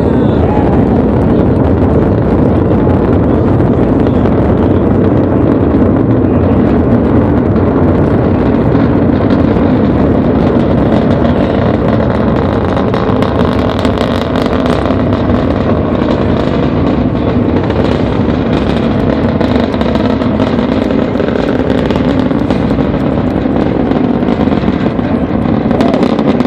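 Delta IV Heavy rocket engines during ascent, heard from about three miles away: a loud, continuous rumble with some crackle, holding steady.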